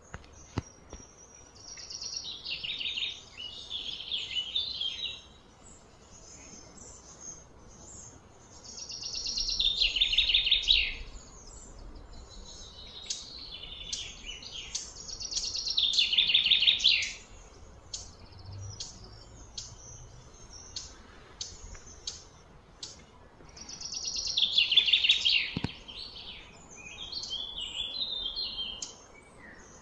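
Bird song: high phrases made of fast trills, each about two seconds long and growing louder before breaking off, repeated every few seconds.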